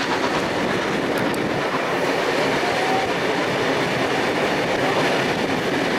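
Steam-hauled passenger train running steadily along the track, a continuous rush of wheel-on-rail noise heard from an open carriage window.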